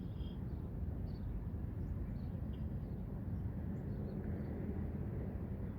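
Low, steady wind noise on the microphone, with a few faint, short bird chirps scattered through it.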